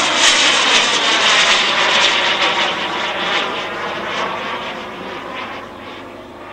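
Turbine-powered model Lightning jet flying past, its jet noise loudest in the first couple of seconds and then fading steadily as it moves away.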